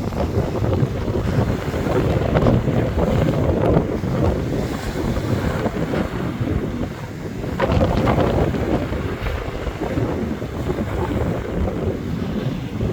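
Rough sea surf breaking on a beach under strong wind, with the wind buffeting the microphone. A steady rush that swells as waves break, strongest about two to four seconds in and again about eight seconds in.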